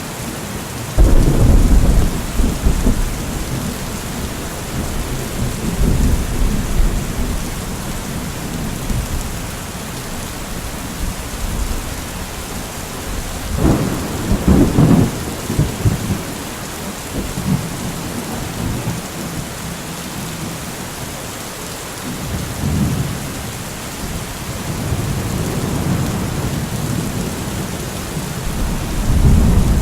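Steady rain falling, with rolls of thunder: a sudden loud clap about a second in that rumbles on for a few seconds, another strong roll near the middle, softer rumbles later on and one more building near the end.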